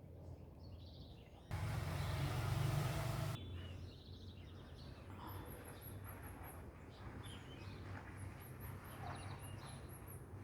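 Several small birds chirping and singing, with rows of very high, thin repeated notes in the second half. A loud rushing noise starts abruptly about a second and a half in and stops as suddenly about two seconds later, over a steady low rumble.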